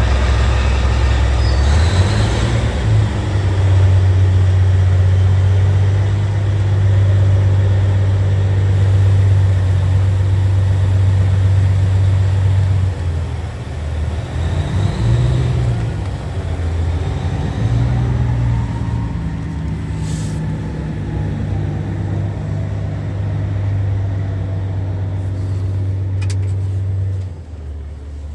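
Scania R tractor unit's diesel engine running, its pitch stepping up and down several times as the revs change, then dropping and quieting about a second before the end.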